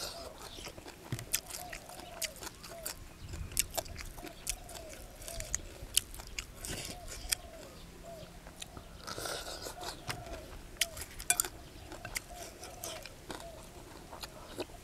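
A person chewing and biting mouthfuls of shrimp laab and fresh leaves close to the microphone, with sharp, irregular crunches and clicks.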